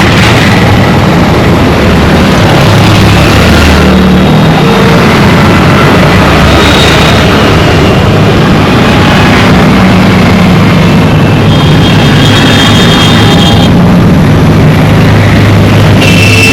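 Dense road traffic: many engines running in a loud, steady rumble, with horns sounding briefly about halfway through and again for a couple of seconds later on.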